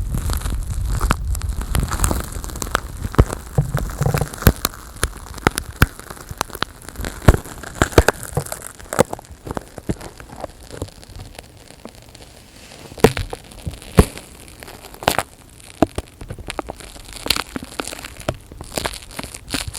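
Close-miked ASMR trigger sounds: irregular crackling clicks and pops from material handled right at the microphone, with a low handling rumble in the first few seconds.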